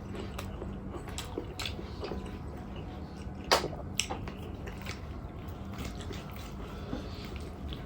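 Close eating sounds of air-fried chicken: biting and chewing with short wet mouth clicks and smacks, the sharpest about three and a half seconds in, over a low steady hum.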